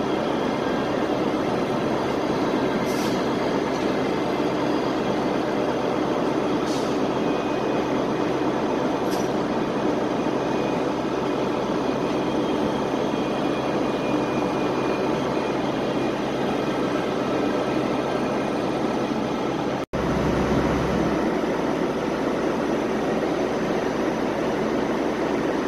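A train running steadily at a station platform: a continuous mechanical drone with a few faint high squeaks. The sound cuts out for an instant about twenty seconds in.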